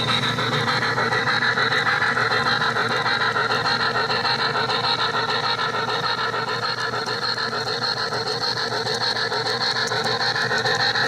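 HO scale model steam locomotive running along the track: steady rolling and mechanical noise with a fast, even pulse.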